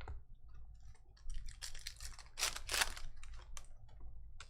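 Trading cards being handled: light clicks at first, then a run of louder rustling and flicking from about a second in, strongest near the middle, as cards slide against one another and against their pack.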